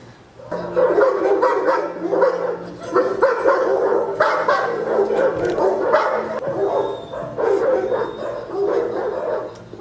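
Dog barking repeatedly, starting about half a second in.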